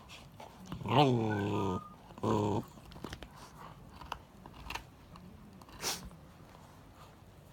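Akita dog growling in two bursts, a long one about a second in and a shorter one soon after, guarding a bone. A sharp click follows near the end.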